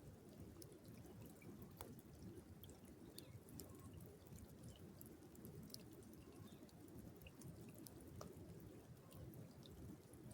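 Near silence: a faint low wash of moving river water with scattered light drips and ticks.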